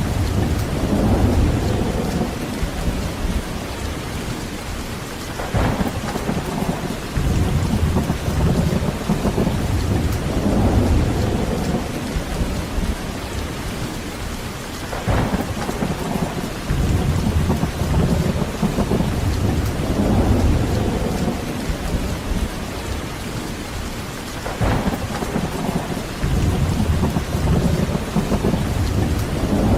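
Heavy rain falling steadily, with rolling thunder rumbling in low swells that come back about every nine to ten seconds.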